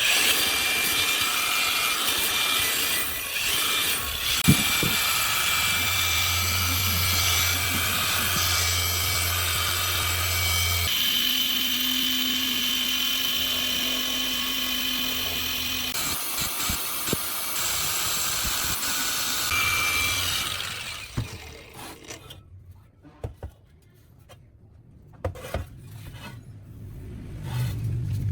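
Power tool running under load, in several cut-together stretches whose pitch and tone change abruptly, then dropping away to quieter scattered clicks and knocks of handling for the last few seconds.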